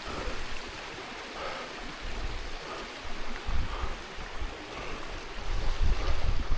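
Running stream: a steady rush of water over rocks, with wind buffeting the microphone now and then, most strongly near the end.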